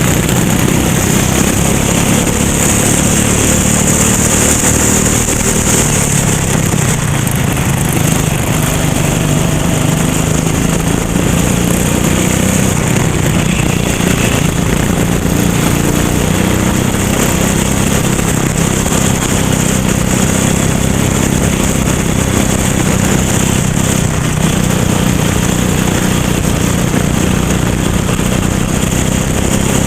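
Racing go-kart engine running hard on track, a steady loud drone whose pitch rises and falls a little.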